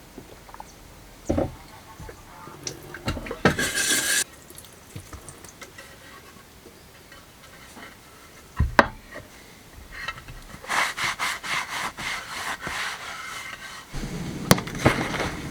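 Intermittent knocks, scrapes and clatter of objects being handled, with a sharp single knock about nine seconds in and a busy run of rapid clicking and scraping shortly after.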